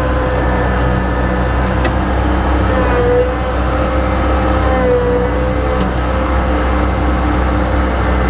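An engine running steadily at an even speed, with a faint tone that wavers slightly in pitch.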